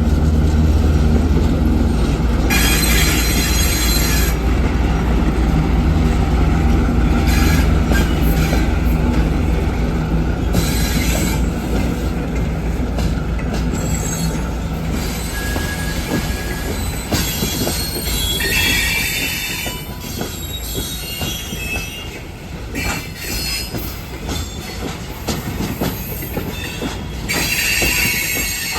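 A ChME3T shunting diesel locomotive moving, its six-cylinder diesel engine running with a heavy low rumble that eases off about halfway through. The wheels squeal in several bursts, and in the second half the wheels click and knock over rail joints and points.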